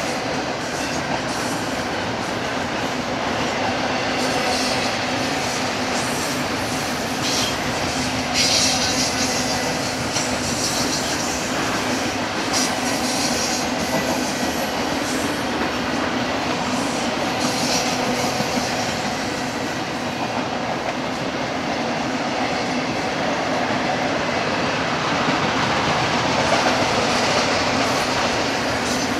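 Freight train cars rolling past on the rails, a steady continuous rumble of wheels on track, with a few brief high-pitched squeals of the wheels.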